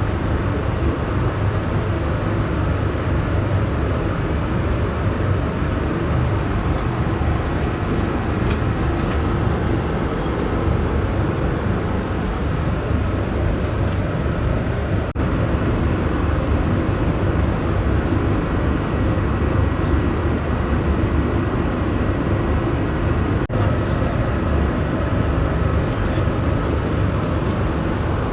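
Steady cabin noise inside a Boeing 787-8 airliner in flight, an even low rumble of engine and airflow noise.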